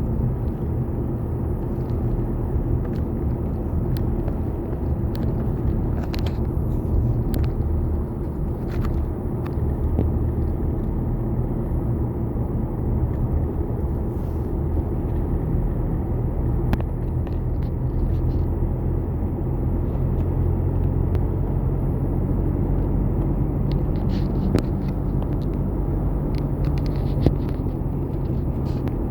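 Steady low rumble of a running engine, with scattered light clicks and knocks.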